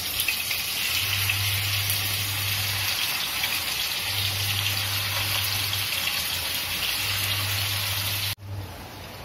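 Marinated chicken pieces sizzling in hot oil in a frying pan as more pieces are laid in. The sizzle cuts off suddenly near the end.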